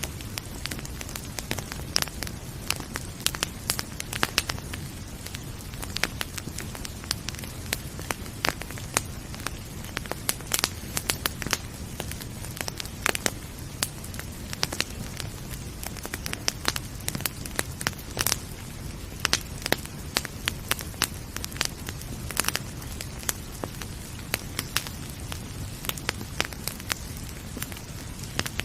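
Wood fire crackling in a fireplace: irregular sharp pops and snaps, bunched several to a second at times, over a steady low rumble.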